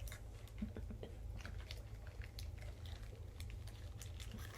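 Faint, irregular light clicks and taps, with no steady sound behind them.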